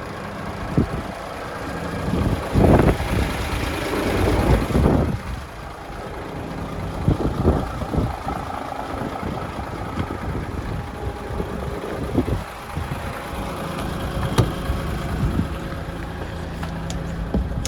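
DAF XF106 tractor unit's Paccar 460 hp Euro 6 diesel engine running at idle, steady, with a louder, rougher stretch a few seconds in and scattered light knocks.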